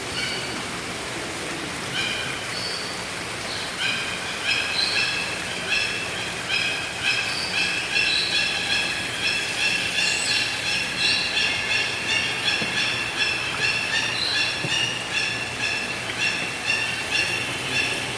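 A group of small birds chirping, a few scattered calls at first, then a dense run of quick, repeated high chirps from about four seconds in.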